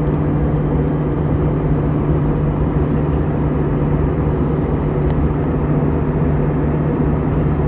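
Steady in-flight cabin noise of an Airbus A320-214: a constant rush of airflow and engine noise under a steady low hum.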